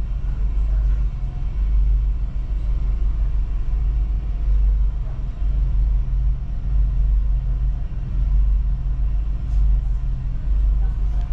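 Regional passenger train running, a steady low rumble that swells and eases slightly, heard from inside the carriage.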